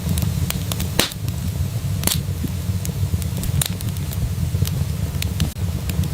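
Wood fire crackling in a fireplace: irregular sharp pops and snaps, roughly one a second, over a steady low rumble.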